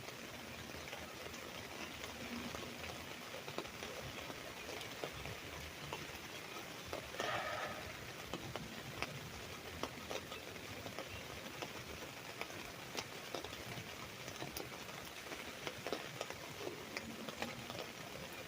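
Rain pattering on an umbrella: a steady hiss of rain with many sharp individual drop ticks. About seven seconds in there is a brief louder sound.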